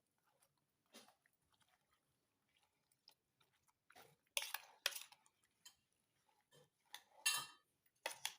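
Someone eating: faint chewing with scattered small clicks and rustles of food and dishes being handled, a few louder ones about four to five seconds in and again near the end.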